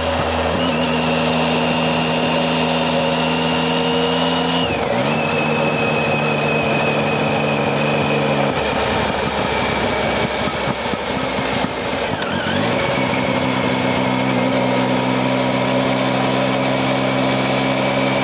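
Triumph Tiger 800XC's three-cylinder engine running under way, with steady wind rush on the microphone. The engine note changes pitch about five seconds in, drops away under the wind for a few seconds around the middle, then comes back strongly near thirteen seconds.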